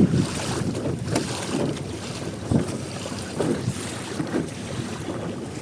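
Wind buffeting the microphone, with water sloshing against a small boat, in an uneven rushing noise broken by soft thumps.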